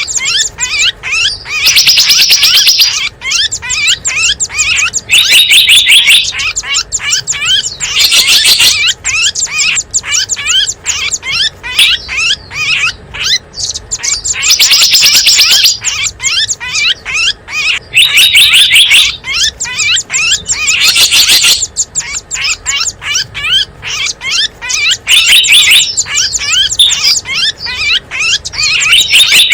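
Bird-lure recording of small wild songbirds chirping and calling in dense, rapid succession. Louder high-pitched bursts of about a second each come every few seconds.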